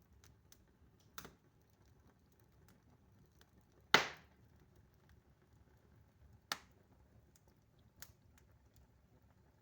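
Wood fire burning in an open hearth, crackling: a few sharp pops among fainter ticks, the loudest about four seconds in.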